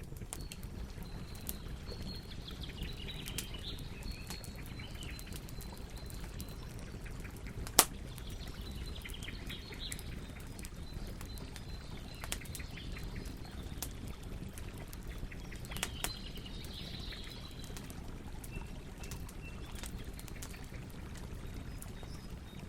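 Campfire burning with a steady low rush and scattered crackles, and one loud pop about eight seconds in. Birds chirp now and then in the background.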